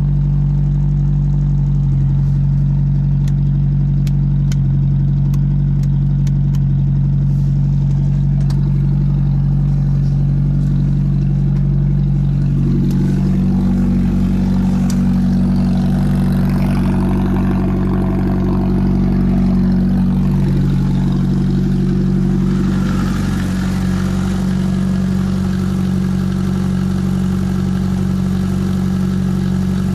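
Lada Zhiguli 1.6-litre four-cylinder engine idling steadily just after a cold start, having stood since September. The idle rises a little about 13 s in and settles back down around 22 s in.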